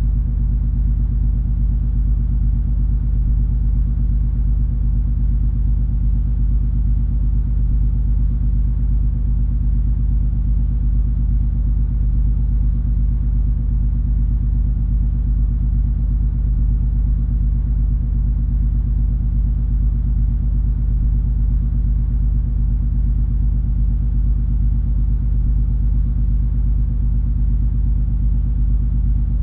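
Steady, deep drone of the cruise ferry MS Color Magic under way, its diesel engines and hull humming evenly with no change in pitch or level.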